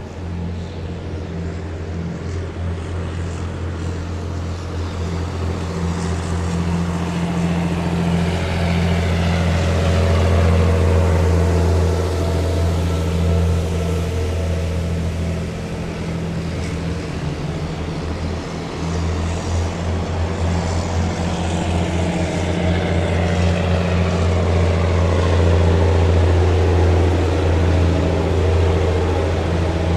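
Heavy military vehicles' diesel engines running in a passing column, a steady low drone. It swells as vehicles go by, loudest about a third of the way in and again near the end, with their pitch dropping as each passes.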